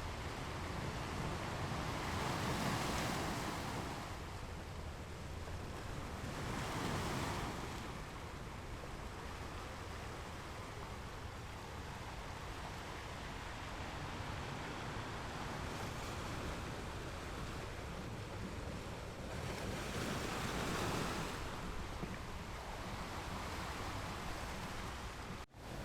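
Ocean waves washing onto a shore: a steady surf hiss that swells as larger waves break, loudest about three, seven and twenty seconds in. There is a split-second dropout just before the end.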